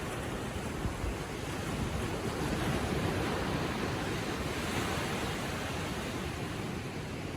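Ocean waves lapping gently on the shore, a steady wash that swells up about two seconds in and eases off after about five seconds.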